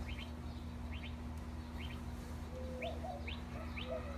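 A small bird chirping over and over in short paired notes, about two a second, with a few lower calls joining in about halfway through, over a steady low hum.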